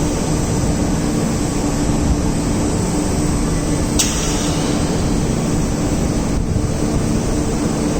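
Wagon tippler machinery running with a steady loud drone and low hum, with a single sharp click about halfway through.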